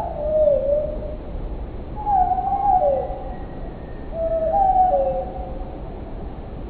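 Birdsong played back slowed down, so it comes out as low, hoot-like gliding notes. There are three phrases, each about a second long, sliding up and down between notes.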